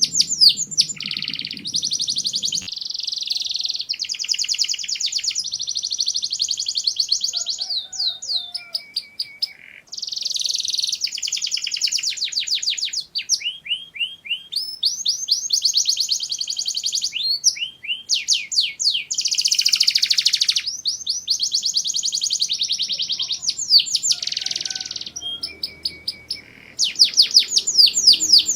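Domestic canary singing: long, high-pitched rolls of very rapid repeated notes, phrase after phrase, with short pauses between them.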